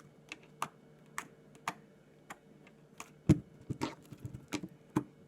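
Slime being squeezed and poked, giving a series of small sharp clicks and pops at uneven spacing, the loudest about three seconds in.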